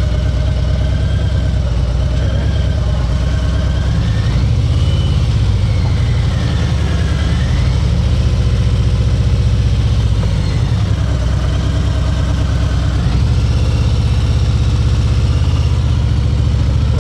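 Harley-Davidson Ultra Limited's V-twin engine running at low road speed, its pitch rising and falling a few times as the bike speeds up and slows through a turn.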